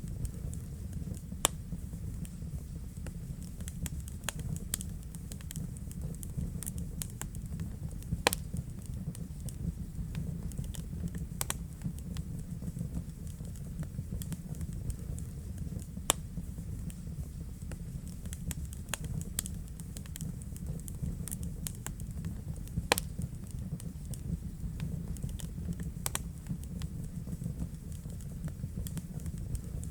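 Wood fire burning in a fireplace: a steady low rumble of the flames with frequent irregular sharp crackles and pops, a few of them much louder than the rest.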